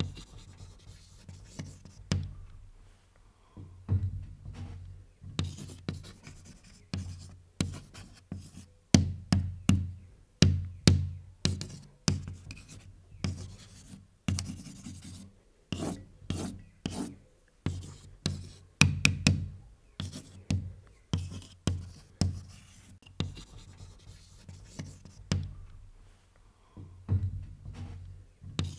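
Someone writing by hand: irregular taps and short scratching strokes of a writing tool on a hard surface, coming in quick runs with brief pauses.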